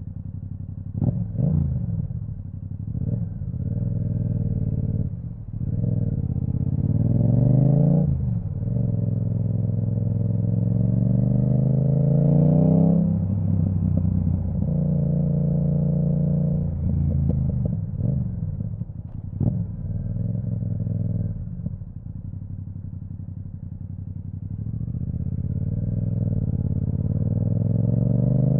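Yamaha MT-07's parallel-twin engine through a de-baffled Akrapovic full titanium exhaust, accelerating hard. Its pitch climbs again and again and drops sharply at each quick upshift, with a steady cruising stretch about halfway through and a long rising pull near the end.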